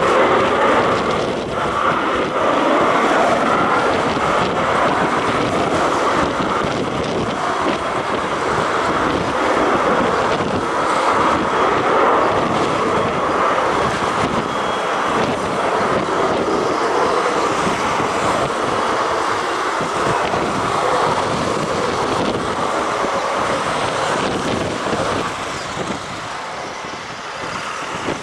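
Military aircraft engine noise running steadily, mixed with strong wind buffeting the microphone; the level eases off a little near the end.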